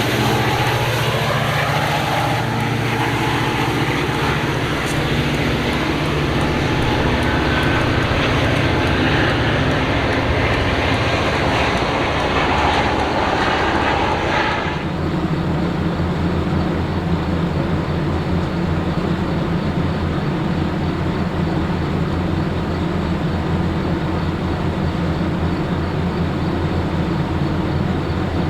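A train passing close by, most likely led by diesel locomotives: engines running steadily over loud rumbling rail noise. About halfway through, the higher hiss drops away suddenly and the low engine drone carries on.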